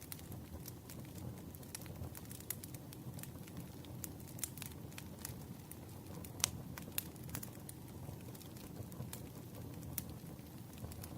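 Campfire crackling: a steady low rumble of burning with frequent irregular sharp pops and snaps, the loudest pop a little past halfway.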